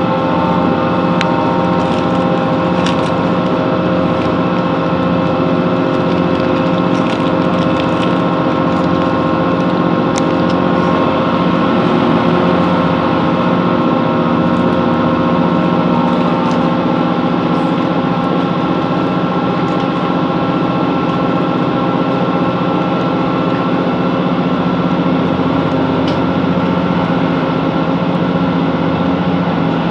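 A Class 165 Networker Turbo diesel multiple unit running at speed, heard from inside the carriage. Its underfloor diesel engine and transmission give a steady drone with several held tones, with faint clicks from the track now and then.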